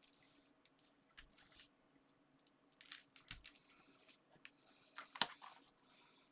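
Faint handling of paper and card on a craft table: light taps, clicks and rustles as layers are positioned and pressed down, with one sharper tap a little after five seconds in.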